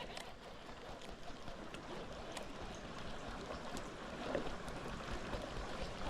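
Steady rushing of a flooded river's current, with a few faint clicks.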